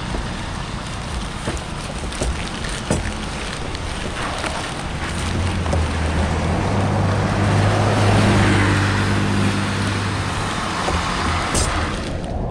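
Steady rush of floodwater draining through a street culvert, with a motor vehicle passing: a low engine hum swells to its loudest about eight seconds in, then fades. A few sharp knocks sound in the first three seconds.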